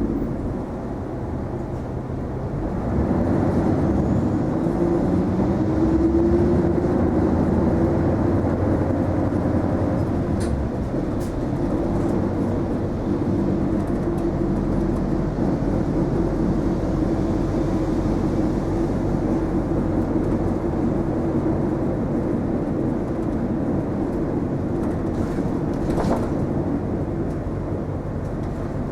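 Isuzu Erga non-step city bus heard from inside the cabin: the engine picks up speed about three seconds in with a rising pitch, then runs steadily with road and body noise. A sharp click sounds near the end.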